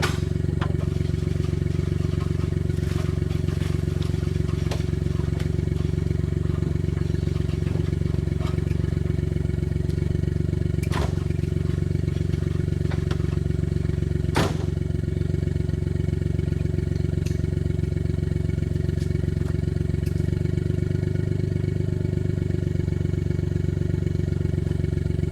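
Suzuki Jimny JA11's small engine idling steadily at an even pitch, with a couple of sharp clicks or knocks about 11 and 14 seconds in.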